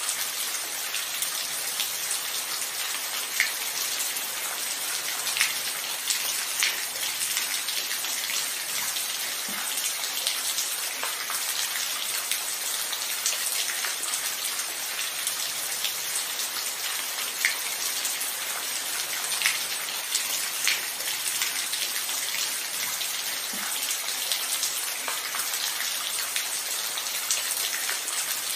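Steady rain falling, a continuous high hiss with scattered individual drops ticking on a hard surface.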